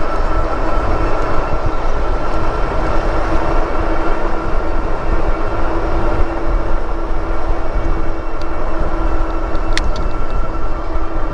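Steady rush of wind and rolling noise while riding an e-bike, with a steady whine from the electric hub motor running through it. A single sharp click near the end.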